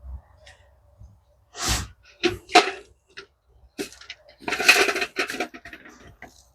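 Loose bird seed rustling and pattering as it is scooped and poured, in several short pours, the longest about halfway through.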